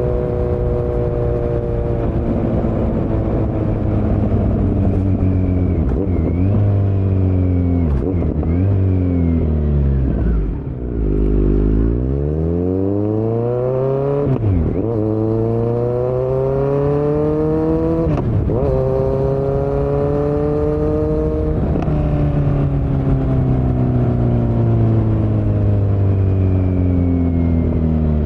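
2018 Kawasaki Z900's inline-four engine through a Yoshimura muffler and Delkevic headers with no dB killer, running loud on the move. The exhaust note mostly sinks as the bike slows, with short dips every couple of seconds, bottoms out about eleven seconds in, then climbs as the bike accelerates and eases off again.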